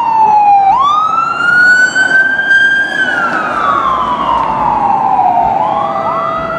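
Fire apparatus siren on slow wail, sweeping down, up and down again in long glides, with a second siren starting to rise near the end.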